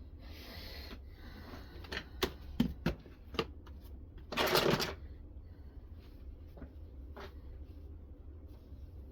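Irregular clicks and knocks from handling a knife-sharpening rig and its stones, with one louder short scrape about four and a half seconds in, over a steady low hum.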